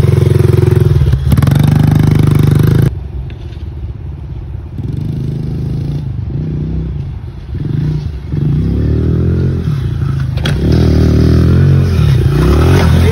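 Small Honda pit bike's four-stroke single-cylinder engine running loud and close, then suddenly quieter about three seconds in. It rises and falls in pitch as the throttle is worked, and grows louder again near the end.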